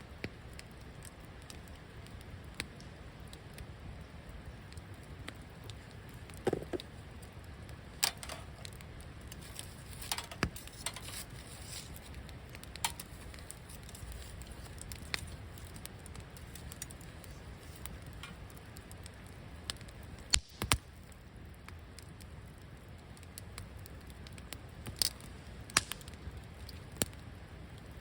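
Wood campfire crackling, with irregular sharp pops and snaps over a steady low hiss; a few louder pops come in a cluster about twenty seconds in.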